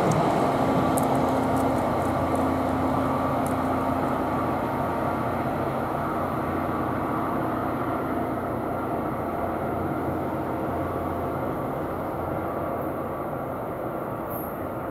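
NJ Transit commuter train hauled by a GP40PH-2B diesel locomotive moving away down the track: a steady rumble of engine and wheels that slowly fades as it recedes.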